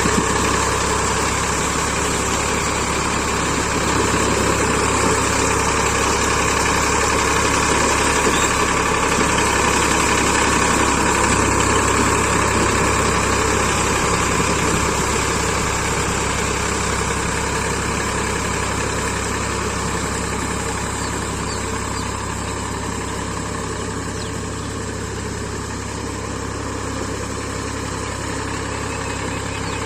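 Powertrac 445 DS Plus tractor's diesel engine running steadily, a little quieter in the second half.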